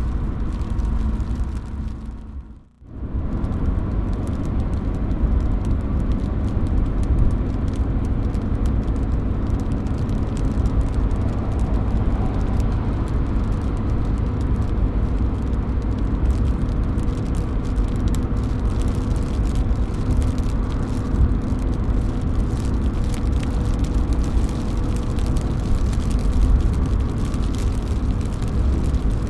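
Steady rain, with drops falling and dripping off a roof. The sound fades down briefly just under three seconds in and comes straight back.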